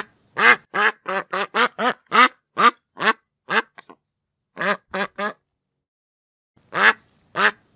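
Duck quacking: a quick run of about ten quacks, a short pause, three more quacks, then two more near the end.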